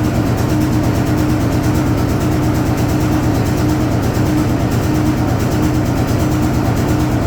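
Hoover Automatic 820 washing machine running steadily through a full load, its motor giving a constant low hum with a steady tone above it.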